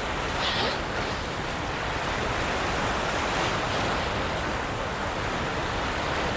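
Steady rush of water released through the open spillway gates of a large river dam, an even continuous noise, with wind buffeting the microphone.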